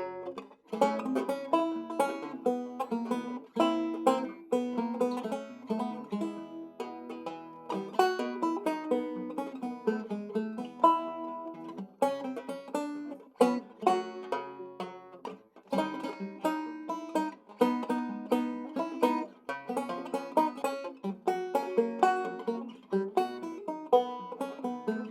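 Solo six-string guitar banjo, a circa 1923 Weymann Keystone State, fingerpicked in a ragtime style: a steady bass alternating under a syncopated melody, with the bright, quickly fading twang of a banjo head.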